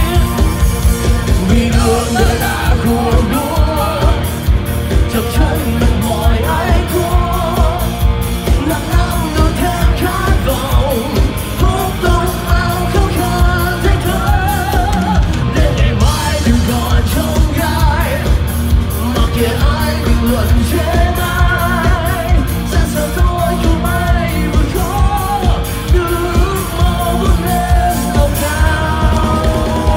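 Rock band playing live, with a steady, driving drum beat under wavering melodic lines and singing.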